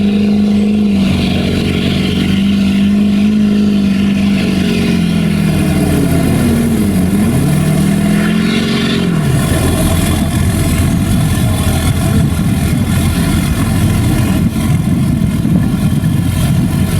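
Diesel pickup truck engine run hard at high, steady revs, then the engine pitch swings down and back about halfway through before breaking into a rougher, unpitched engine noise for the rest of the pull.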